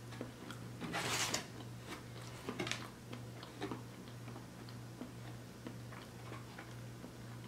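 Close-miked chewing of a mouthful of cake donut: soft wet mouth clicks and smacks, with a brief louder rush of noise about a second in, over a steady low hum.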